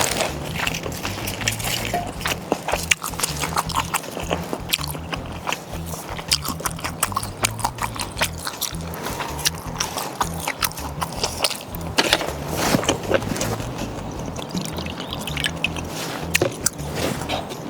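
Close-miked chewing and biting, with many short crisp clicks and crunches, over background music with a steady repeating bass pattern.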